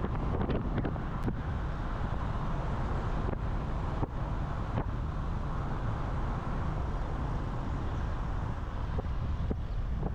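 Jeep Wrangler driving: a steady low rumble of engine and road noise with wind on the microphone, and a few faint clicks and knocks.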